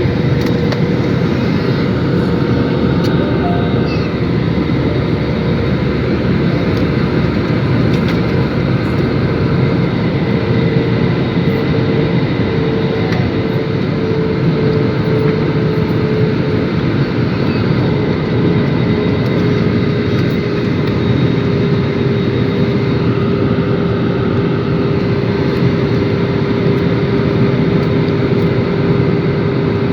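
Airliner engine noise: a steady rush with a whine that drifts slowly lower in pitch.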